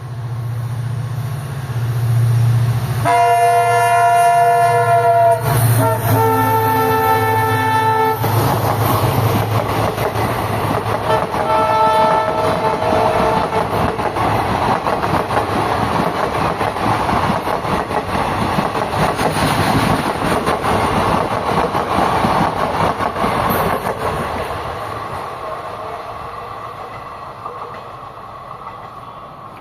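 An EMD WDP4 diesel locomotive (two-stroke V16) approaches with a low engine rumble and sounds its multi-tone horn in two long blasts, about three and six seconds in, then a shorter blast a few seconds later. The train's coaches then run past with steady wheel clatter, which fades away near the end.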